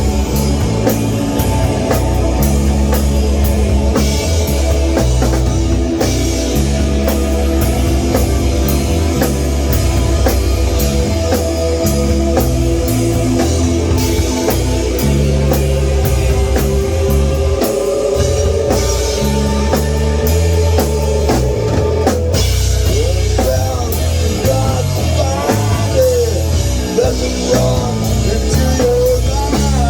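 A rock band playing a heavy song: drum kit, bass and guitar, loud and steady, with bending pitched lines in the second half.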